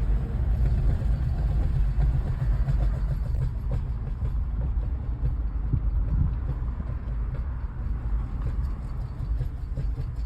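2013 Toyota RAV4 driving through tight turns: a steady low rumble with faint, irregular clicks from about a third of the way in. This is the noise the car makes only when turning tightly, cause unknown.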